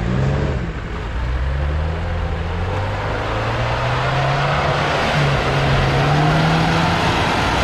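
Off-road 4x4's engine revving, its pitch climbing and falling repeatedly, with a short dip about five seconds in before it picks up again.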